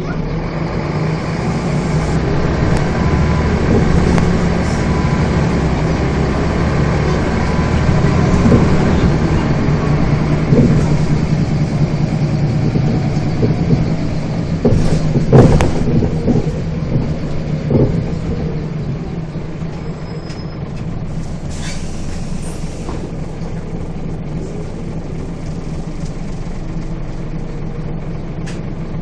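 A Scania bus's diesel engine running under way, louder for the first two-thirds with a few sharp knocks and rattles around the middle, then settling quieter and steady.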